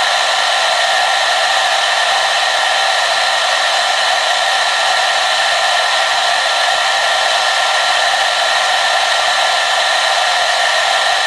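Hair dryer running steadily: an even, unchanging rush of air with a faint steady motor whine in it.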